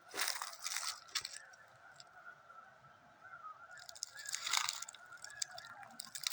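A large flock of geese honking in a steady, distant chorus. Bursts of rustling noise come near the start and again in the second half.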